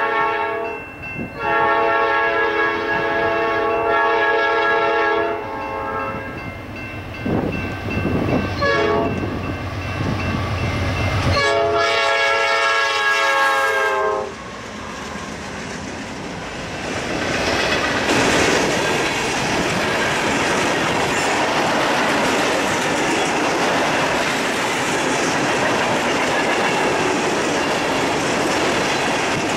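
Norfolk Southern freight train diesel locomotive sounding its multi-note air horn in long blasts: one running to about five seconds in after a brief break near the start, and another from about eleven to fourteen seconds in, with the low rumble of the passing locomotives between them. After that the freight cars roll past with a steady clatter of wheels over the rail joints.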